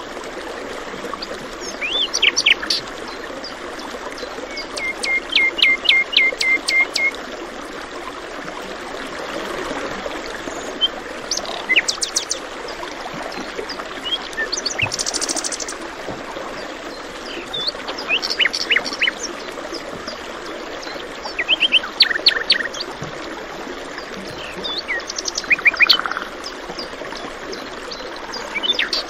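Songbirds singing short phrases every few seconds over the steady rush of a stream. One phrase is a quick run of about eight repeated notes.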